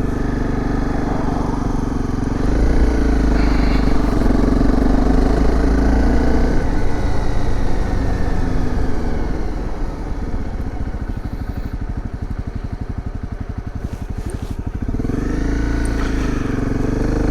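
Dirt bike engine running under way, pulling harder for a few seconds, then dropping to a lower, choppy pulsing run for several seconds before picking up again near the end.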